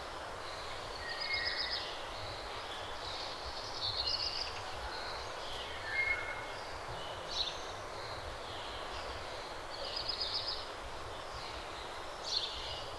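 Outdoor ambience: birds calling every couple of seconds with short high chirps and trills, over a steady hiss.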